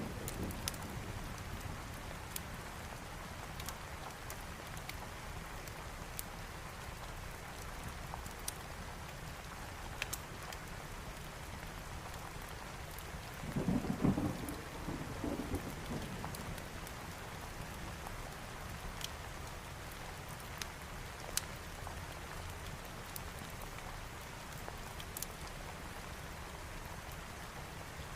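Steady rain falling, with a low roll of thunder right at the start and a longer one about halfway through. Scattered sharp pops and crackles from a wood fire sound over the rain.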